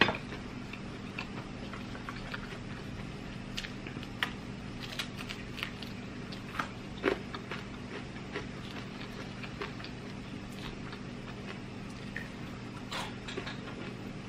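A person chewing food close to the microphone: soft wet smacks and clicks scattered irregularly, two louder ones at the start and about seven seconds in, over a steady low hum.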